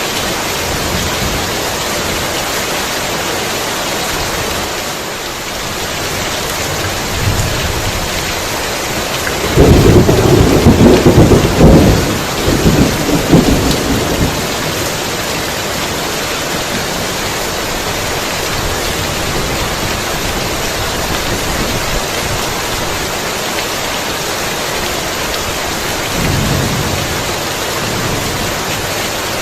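Heavy rain falling steadily, with a loud crack-and-rumble of thunder about ten seconds in that dies away over some four seconds, and a fainter rumble near the end.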